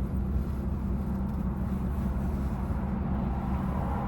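Steady low rumble of a straight-piped BMW 340i's turbocharged straight-six idling.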